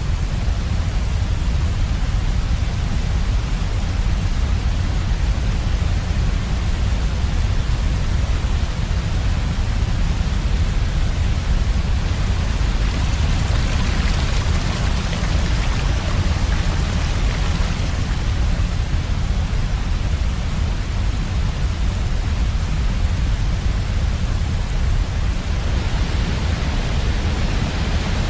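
Heavy waterfall: a steady rush of falling water, strongest in the low end, its hiss swelling briefly about halfway through and again near the end.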